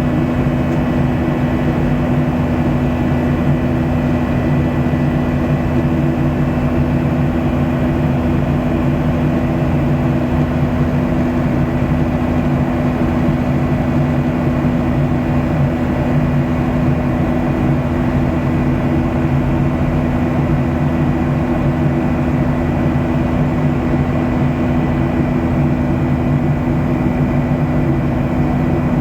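Steady cabin drone of a Boeing 737-700 in its climb: the CFM56-7B turbofan engines and the rush of air over the fuselage, with a steady low hum and a faint high tone held throughout.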